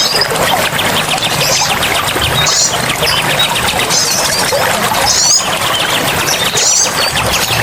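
Forest bird song: several birds giving short, twisting high chirps over a rapid, steady ticking trill, against a constant rushing background like running water.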